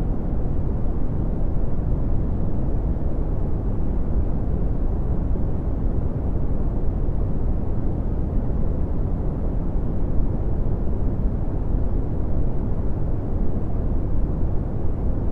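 Red (Brownian) noise: a steady, deep rumbling hiss with most of its energy in the bass and little above the midrange, unchanging throughout.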